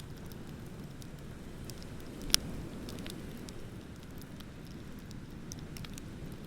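Wood bonfire crackling with scattered small pops and one sharp loud pop a little over two seconds in, over a steady low rumble of ocean surf.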